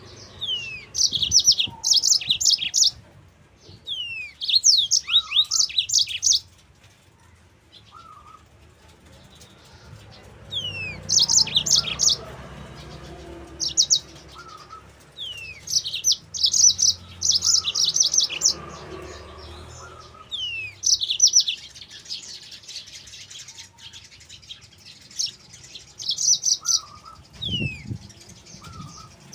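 Yellow-fronted canary (Mozambique canary) singing in repeated bursts of rapid, high, bright trills. Each burst opens with a quick downward whistle, and the phrases come every two to three seconds.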